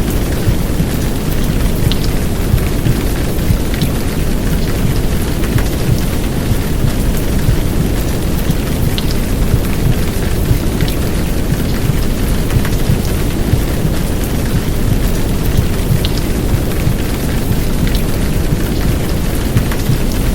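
Heavy downpour rain, a steady dense hiss over a deep low rumble, with scattered sharp drop ticks, layered with a womb-sound recording of low whooshing noise.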